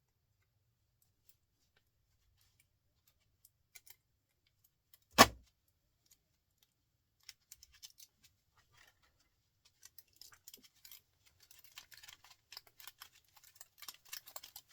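Light metallic clicks and clinks of hand tools working copper windings off a small electric motor, growing busier in the second half, with one sharp knock about five seconds in.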